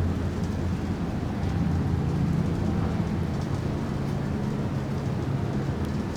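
Rain falling in a thunderstorm, with a steady low rumble underneath.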